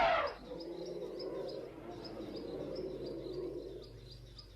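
Insects chirping in a regular high-pitched rhythm, about three chirps a second, over a steady low sound with several tones that fades near the end. A loud animal call dies away just at the start.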